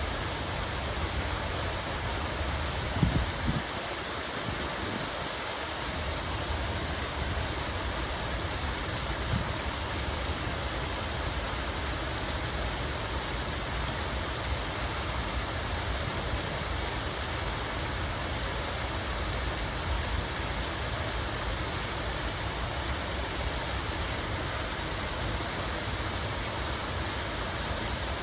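Steady rush of running, falling water. A couple of brief low thumps about three seconds in.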